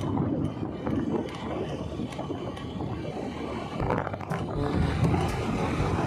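Motorcycle on the move: irregular engine and road rumble, a little louder about four seconds in.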